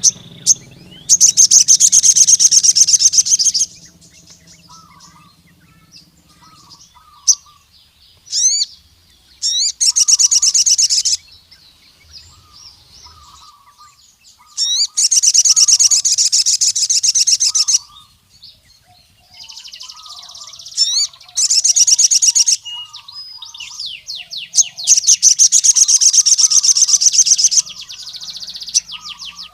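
Male ruby-cheeked sunbird (sogon) singing the song that calls rival males: five loud, rapid high trills of one to three seconds each, with sharp rising whistled notes between them.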